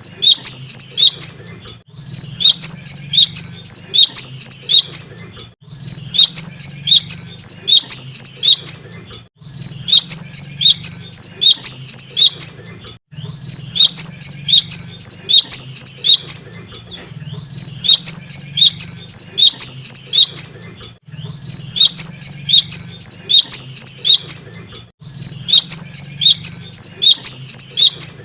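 Cinereous tit (gelatik batu) singing loudly in bursts of quick, sharp high notes, each burst about a second and a half long and repeating roughly every four seconds.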